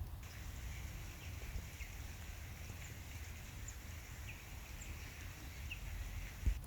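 Outdoor ambience: a low rumble under a faint steady hiss, with short faint bird chirps every second or so. A single dull thump comes near the end.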